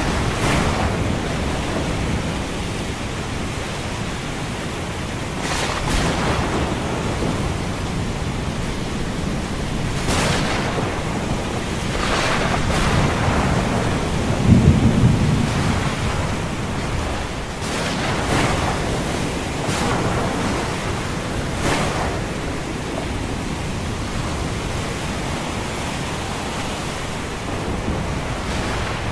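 Thunderstorm ambience: steady rain and ocean surf washing in swells every few seconds, with a loud roll of thunder about halfway through.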